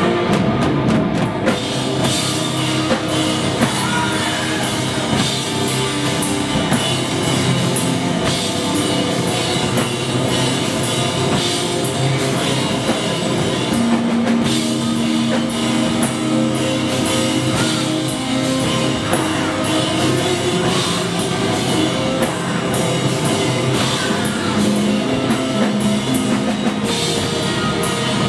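Rock band playing live: an instrumental passage with the drum kit keeping a steady beat under the other instruments, without vocals.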